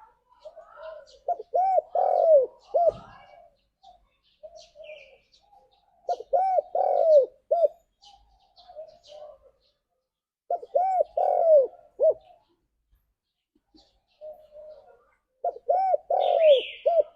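Spotted dove (tekukur) cooing its call: four phrases of several arching coo notes, repeated about every four and a half seconds, each led in by softer notes. Faint high chirps sound between the phrases.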